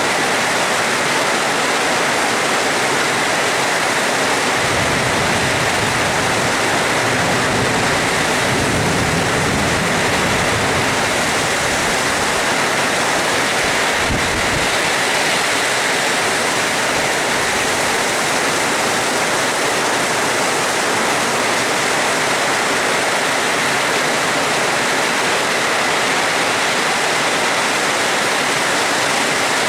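Steady heavy rain falling, an even dense hiss. A low rumble of distant thunder swells about five seconds in and lasts several seconds, with a shorter one around fourteen seconds.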